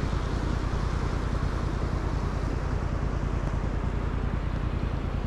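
Honda NC750X motorcycle's parallel-twin engine running at a steady speed, with wind noise on the microphone.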